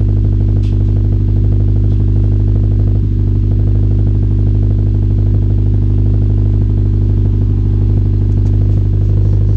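Honda Civic Si's 2.4-litre four-cylinder engine idling steadily through an aftermarket exhaust as it warms up after a cold start, the car not having been run for about a week.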